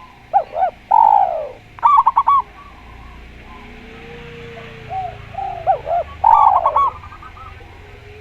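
Javan spotted dove and zebra dove cooing: quick runs of looping notes and a long falling coo in the first two and a half seconds, then a second bout of coos from about five to seven seconds in.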